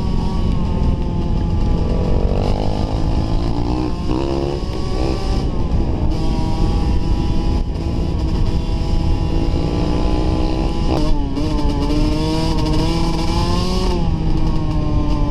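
Dirt bike engine running hard on a trail, its pitch climbing and dropping again and again, with sharp drops about four and eleven seconds in, over a steady low rumble.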